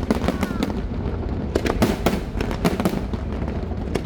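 Aerial fireworks bursting in quick succession: a dozen or so sharp bangs over a continuous low rumble.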